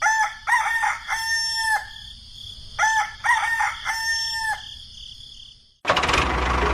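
Rooster crowing twice, each crow lasting nearly two seconds, over a faint steady high hum. Near the end the sound cuts suddenly to a loud, steady noise.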